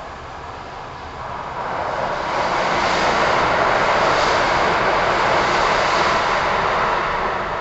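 Another train passing on the adjacent track, heard from inside a stopped commuter train: a rushing noise that swells over a second or two, holds for several seconds and fades near the end.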